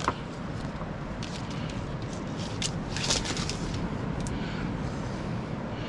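Light rustling and a few soft clicks from handling a tangled electrical cord, over a steady background hiss.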